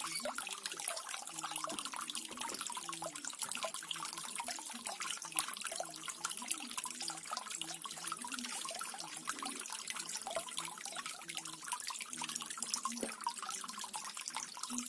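Small garden waterfall: water falling and splashing steadily into a pool, with dense fine splashing and trickling.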